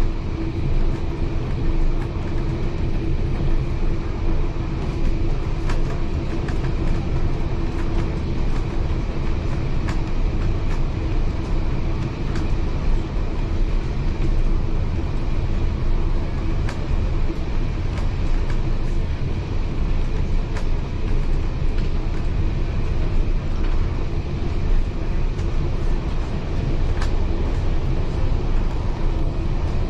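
Heritage railway carriage rolling along the track, a steady low rumble of wheels on rail with a faint steady hum and scattered sharp clicks.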